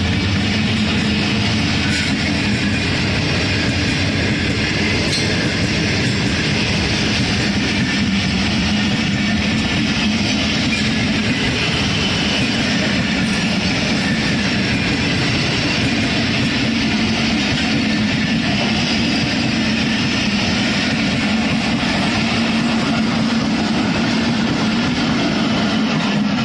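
Pakistan Railways Pak Business Express passenger train running through the station at speed without stopping, its coaches going by in a loud, steady rush of wheels on rail.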